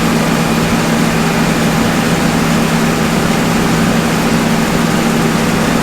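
John Deere 9770 STS combine harvester running under load while harvesting: a loud, steady mechanical drone with a strong low hum.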